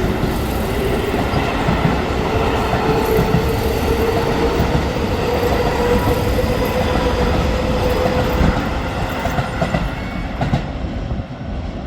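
Keio Line electric train running past on the tracks: loud wheel-on-rail noise with a whine that rises slowly in pitch. It eases off a little near the end.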